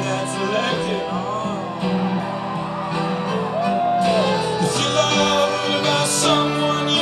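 Live band music with sung vocals over guitar and other instruments.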